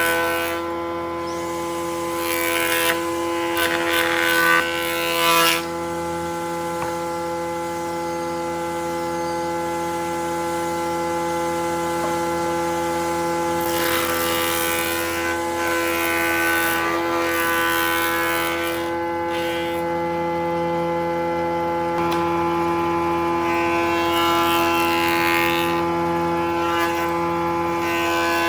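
A woodworking power tool's motor running steadily at one pitch, with louder stretches of cutting noise about two seconds in, about halfway through and near the end, as the tool works the wood.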